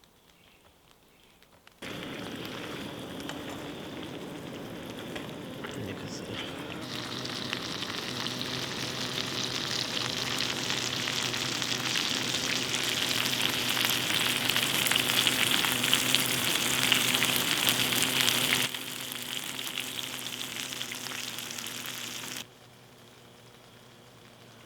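Rain pattering: a dense crackling hiss that starts suddenly about two seconds in, grows louder, then drops away in two steps near the end.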